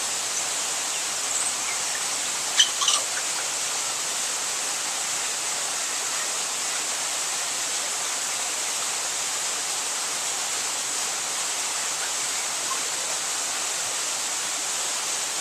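A few short, sharp bird calls over a steady hiss: one about a second and a half in, a louder cluster near three seconds, and fainter ones later.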